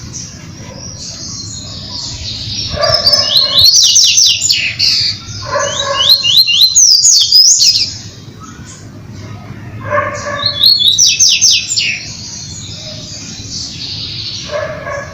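Seedeaters (papa-capim and coleiro) singing an 'esquenta' warm-up song: three loud phrases of rapid, falling, twittering notes about three, six and ten seconds in, with softer twittering between them over a low steady rumble.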